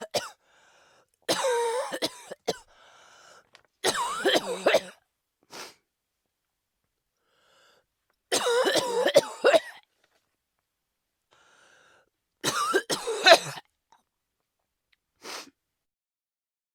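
A person coughing in four separate fits of about a second each, with silent pauses between them and a few fainter single sounds in between.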